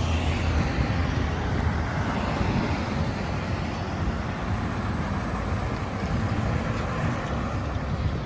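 Diesel engine of a Seagrave fire engine pumper running steadily as the truck drives along the street, with a low rumble under road noise.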